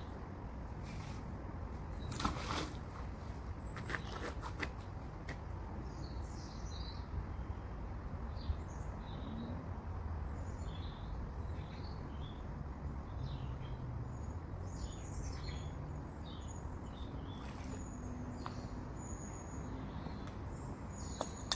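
Small birds chirping again and again over a steady low background rumble. A couple of brief sharp knocks come about two and a half and four seconds in.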